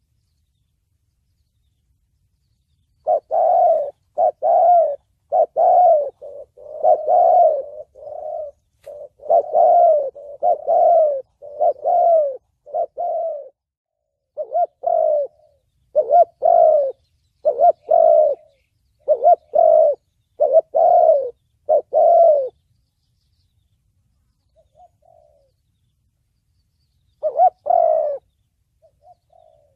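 Spotted dove cooing in the 'thổ bầu' voice, a call style that bird trappers play to lure wild doves. The bird gives a long series of short repeated coos starting about three seconds in, pauses, then calls once more near the end.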